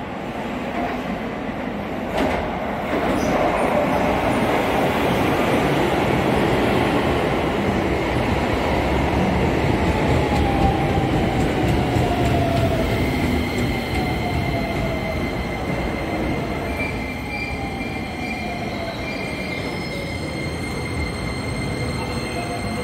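Keisei electric train running into the station and braking to a stop: a loud rumble of wheels on rail, a whine that falls in pitch as the train slows, and a steady high squeal that joins in about halfway through.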